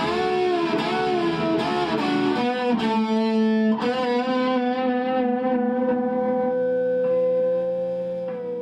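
Electric guitar playing: bent notes at first, then a chord held and left to ring, slowly fading near the end.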